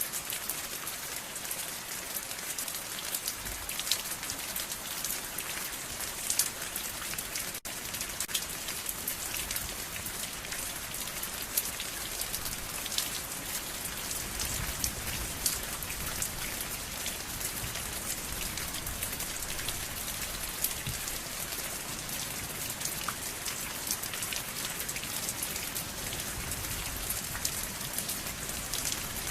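Steady rain falling on a surface, with many individual drops heard as sharp ticks over an even hiss. A momentary gap in the sound about seven and a half seconds in.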